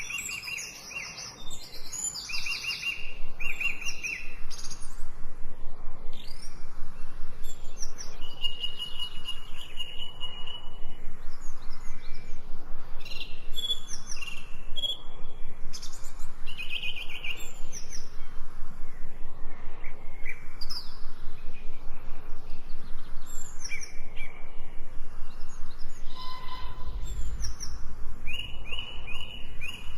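Several wild birds calling and singing, with a short trilled phrase repeated near the start and again near the end, mixed with other whistles and chirps. A low rumble under them grows louder near the end.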